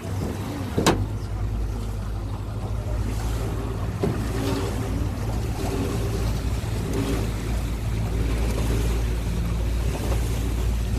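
Tour boat's engine running steadily in a low rumble, with wind and water noise over it. A single sharp click comes about a second in.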